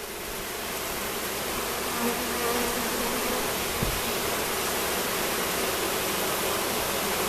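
A mass of honeybees from a newly installed package buzzing in the air around the hive, growing louder about a second in, with a single bee humming close by about two seconds in and one brief click near four seconds.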